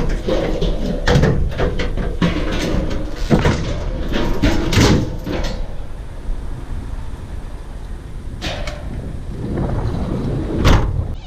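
Scrap metal clattering and knocking as it is handled and loaded, with a dense run of bangs in the first half and two sharp knocks near the end, over a steady low rumble.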